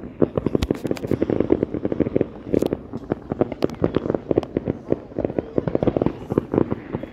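Fireworks and firecrackers going off in the distance, a dense run of pops and cracks several times a second without a break.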